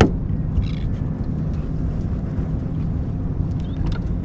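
Steady low rumble of wind and water noise aboard a small fishing boat, with a sharp knock right at the start and a couple of faint ticks.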